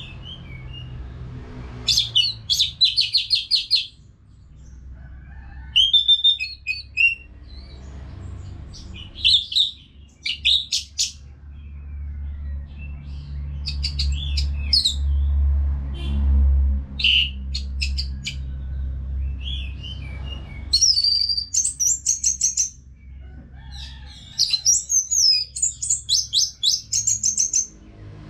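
Orange-headed thrush (anis merah) singing in bursts of varied phrases every few seconds, some of them quick runs of repeated notes, over a steady low rumble that swells in the middle.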